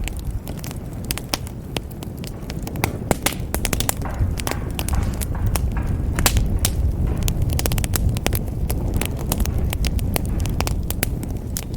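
Wood fire in a fireplace crackling, with many sharp pops and snaps over the low, steady rumble of the flames.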